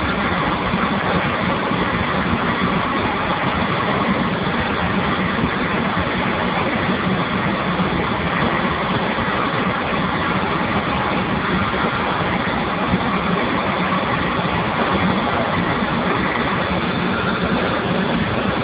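Steam boiler running: a steady, even roar with a low hum underneath, unchanging throughout.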